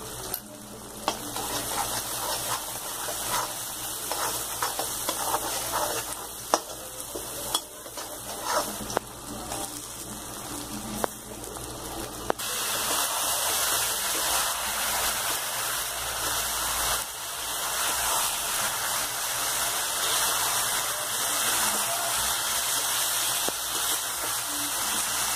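Spice masala sizzling in hot oil in a kadhai while a spoon stirs it, with frequent scraping ticks against the pan. About halfway through, the sizzle becomes louder and steadier.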